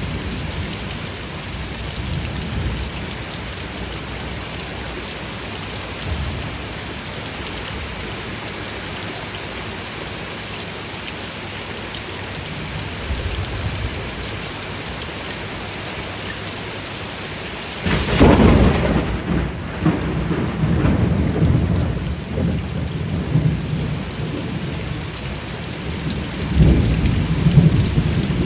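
Steady rain falling, with thunder: a sudden sharp thunderclap about two-thirds of the way in, followed by a long low rolling rumble that swells again near the end.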